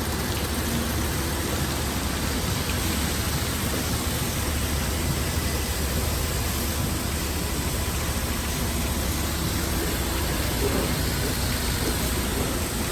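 Steady rushing noise of an automatic car wash tunnel's equipment running.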